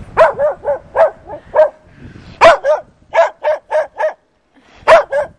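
A dog barking repeatedly in quick runs of about three or four barks a second, with short pauses between the runs.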